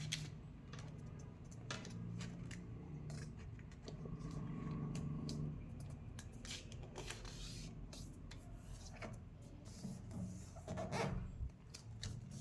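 A sheet of paper being folded and creased by hand: soft rustling and crinkling with scattered light taps and scrapes.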